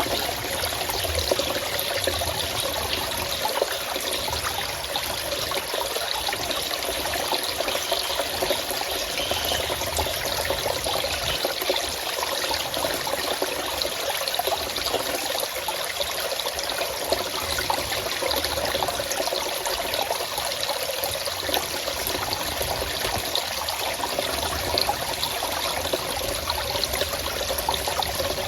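Forest stream flowing and trickling steadily over stones, an even, unbroken splashing babble.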